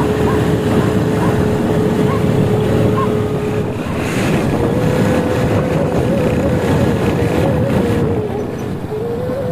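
Motorcycle engine running at road speed, with wind buffeting the microphone. Its steady drone steps up in pitch about four and a half seconds in and wavers after that.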